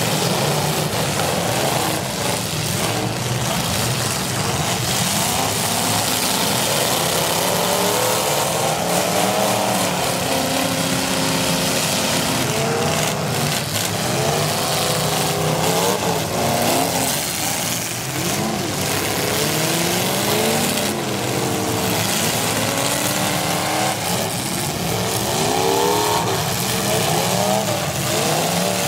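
Several V8 demolition derby cars running at once, their engines revving up and down over a continuous loud din.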